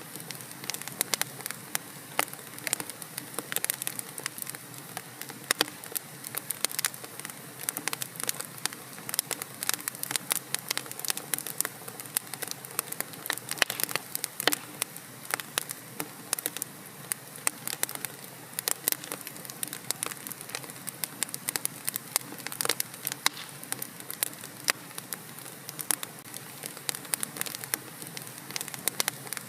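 Fireplace wood fire burning, with a soft steady hiss and many sharp, irregular crackles and pops.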